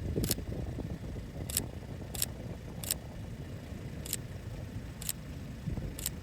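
Camera shutter clicking seven times at uneven intervals, over a steady low rumble of wind buffeting the microphone.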